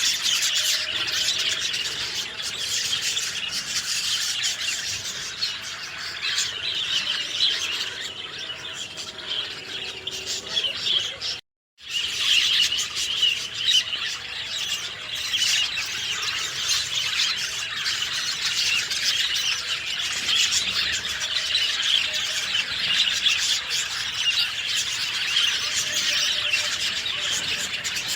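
A dense chorus of many small birds chirping and singing at once, steady throughout. It is broken by a split-second gap of silence about eleven seconds in.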